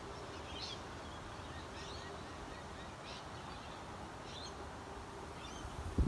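Outdoor ambience: a bird gives short high chirps about five times, roughly once a second, over a steady rushing background noise. A low thump comes at the very end.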